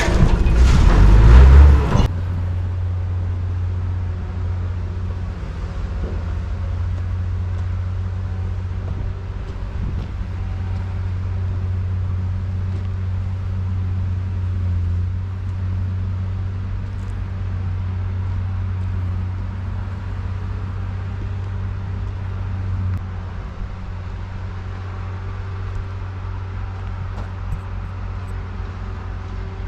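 Steady low drone of a car on the move, engine and road noise heard from inside the cabin, after a loud full-range sound that stops about two seconds in.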